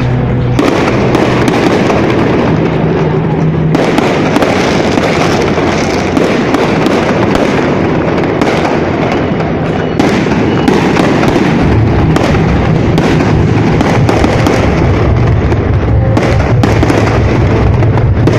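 A fireworks display, with shells bursting and crackling in quick, unbroken succession. The bangs ease off briefly near the middle and then build again.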